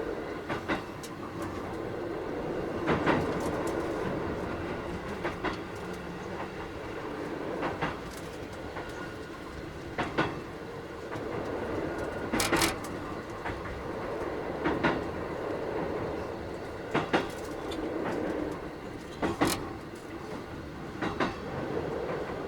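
Keikyu 1000-series electric train with a Mitsubishi IGBT inverter running along the line, a steady rumble with wheels clacking over rail joints about every two seconds.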